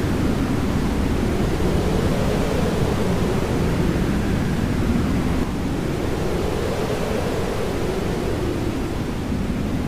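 Jet aircraft engines giving a steady, rushing roar, with a slow rise and fall in its tone.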